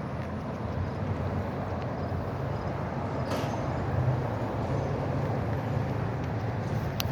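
Steady rush of fast-flowing river water running high.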